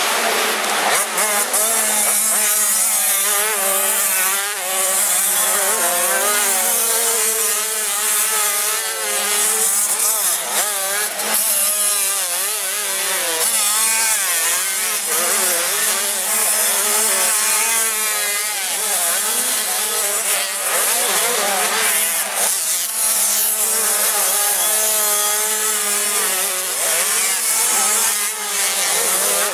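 85 cc two-stroke motocross bikes running on the track, their high-pitched engine buzz rising and falling again and again as the riders open and close the throttle.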